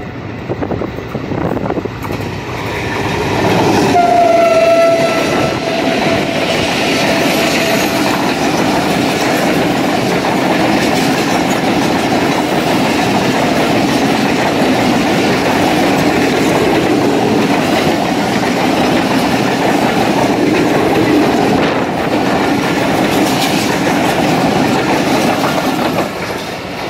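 Pakistan Railways express train passing at speed behind an HGMU-30R diesel locomotive. The horn gives one short blast about four seconds in. Then the long rake of coaches rushes past with the steady noise of wheels on rail joints, which drops away as the last coach clears near the end.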